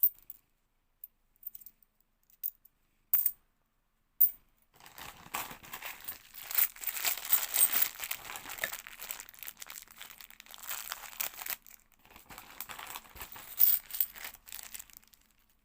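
A few sharp clicks of 50p coins being handled, then from about five seconds in a long spell of crinkling plastic from a bank coin bag being worked open and emptied, with coins clinking.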